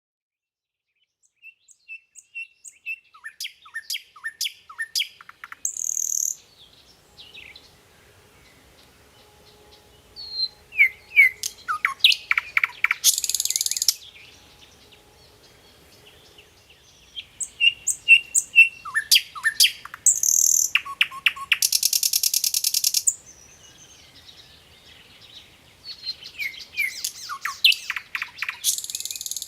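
Nightingale singing in phrases a few seconds apart: each phrase is a rapid run of repeated notes, most ending in a dry buzzing rattle. The first phrase begins about a second and a half in; the song then comes back three more times.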